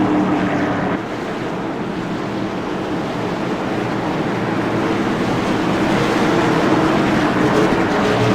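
Stock car engines of a pack of cars running on the track, heard as a loud, steady rushing drone with engine tones in it. It dips slightly about a second in, then slowly swells.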